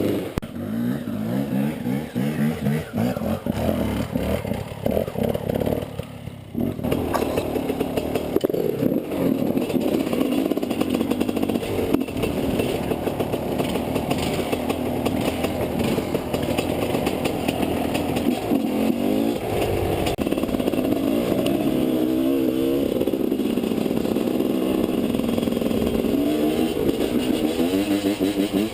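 Enduro motorcycle engine running and revving, its pitch rising and falling again and again. It drops away briefly about six seconds in, then runs on without a break.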